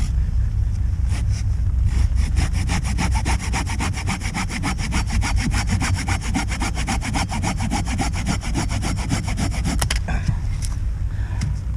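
Hand saw cutting through wood in quick, even strokes, starting about two seconds in and stopping about two seconds before the end, over a steady low wind rumble on the microphone.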